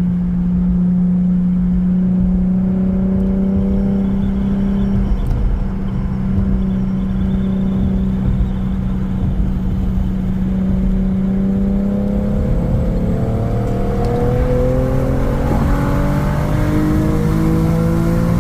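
Infiniti Q50's 3.7-litre V6 exhaust through a Remark axle-back, droning on one steady note while cruising, then rising in pitch as the car accelerates over the last several seconds.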